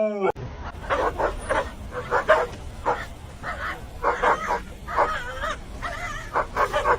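A dog giving a quick series of short, whiny barks and yips, over a steady low background rumble.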